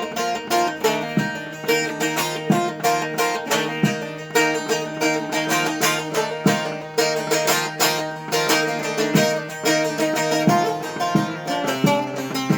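A plucked string instrument plays a fast, rhythmic run of notes over a steady low drone, with no singing: the instrumental break between verses of a Turkish folk song.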